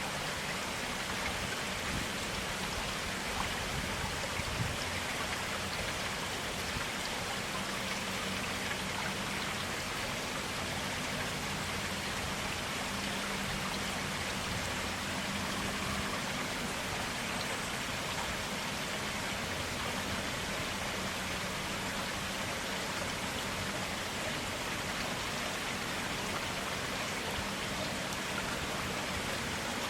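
Clear stream water flowing and splashing steadily, an even continuous rushing with no breaks.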